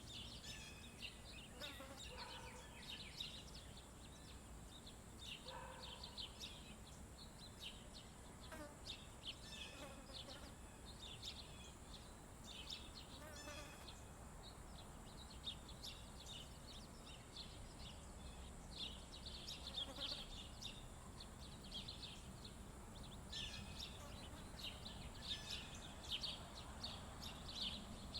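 Small songbirds giving many short, high chirps, scattered and overlapping, over a steady thin high-pitched insect buzz.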